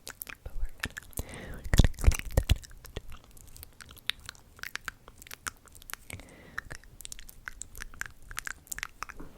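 ASMR mouth sounds close to the microphone: a quick, irregular string of wet clicks and pops. The loudest cluster comes about two seconds in.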